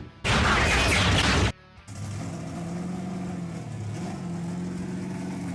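A loud rushing burst lasting about a second near the start, then a car engine sound effect running at a steady pitch for the rest.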